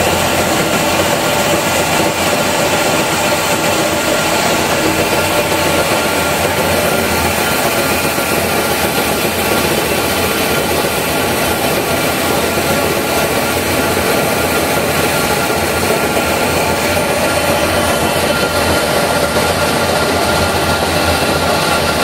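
PET plastic flake washing machine running with water in it: a steady, loud machine noise with several constant hum tones.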